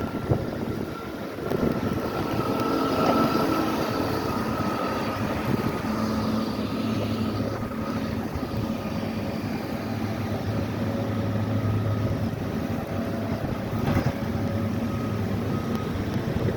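Engine of snow-clearing equipment running steadily, its low hum growing stronger in the middle, with one sharp knock near the end.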